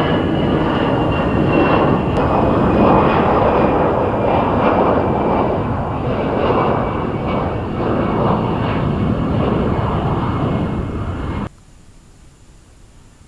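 Jet airliner engines running loud at close range: a dense rumble with a high fan whine on top. The sound cuts off abruptly near the end, leaving a faint hiss.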